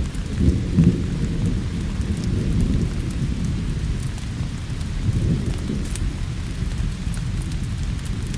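Thunder rolling low under steady rain, the rumble swelling about half a second in and again around five seconds, with faint sharp ticks on top.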